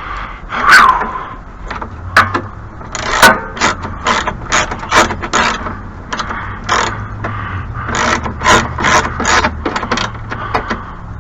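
Irregular metallic clicks, clinks and knocks from hand tools and parts being worked on a snow thrower, with a faint low hum underneath.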